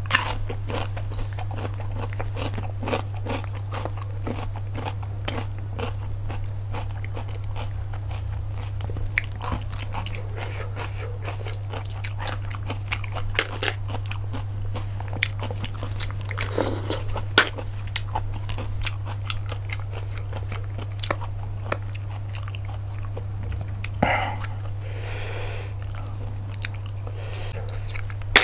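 Close-miked eating of cockles: chewing and crunching with many small sharp clicks scattered throughout, over a steady low hum.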